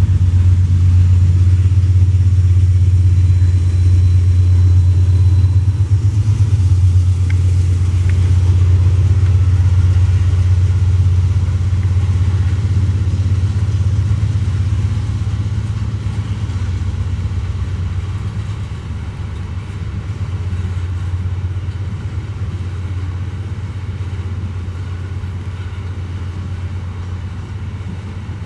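Diesel-electric locomotives hauling a loaded ore train: a steady, loud, low engine drone that fades gradually over the second half.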